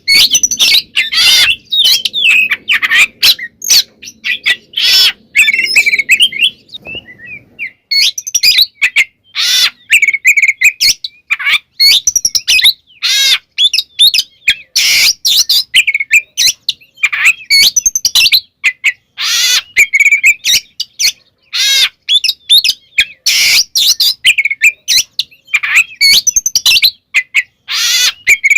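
Oriental magpie-robin (kacer) singing continuously in fast, varied phrases of whistles, trills and harsh notes, full of mimicked phrases.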